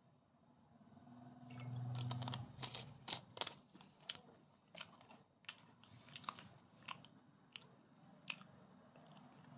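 A person chewing crunchy food, sharp crunches coming about once or twice a second. A short steady hum from the same person comes before the crunching starts.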